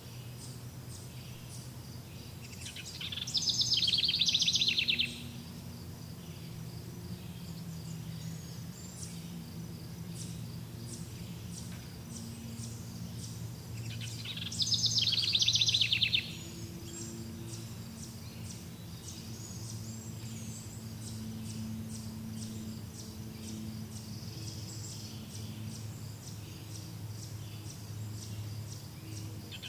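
Outdoor nature ambience: insects chirping steadily over a low hum. A loud, rapid trill of about two seconds comes twice, roughly eleven seconds apart, with another starting right at the end.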